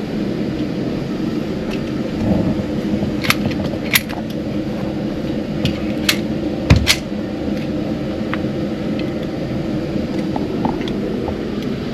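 Steady fan hum of an indoor shooting range's ventilation, with four short sharp clicks scattered through the middle.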